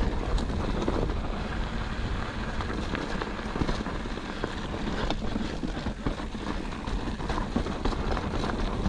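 Wind buffeting an action camera's microphone while a mountain bike rolls along a dirt trail, with steady tyre noise and a few faint knocks from the bike over rough ground.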